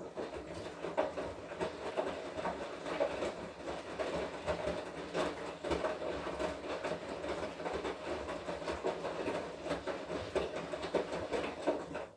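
Washing machine drum turning during the wash cycle: a steady motor hum with the wet laundry tumbling and knocking irregularly.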